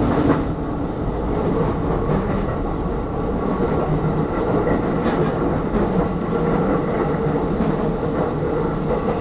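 Aonami Line electric train running along the track: a steady rumble with a steady hum, and a sharp click about half a second in and another about five seconds in.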